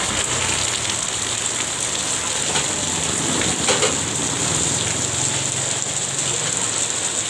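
Steady rain falling and pattering on surfaces, an even, continuous hiss, with a faint low hum beneath it that fades out near the end.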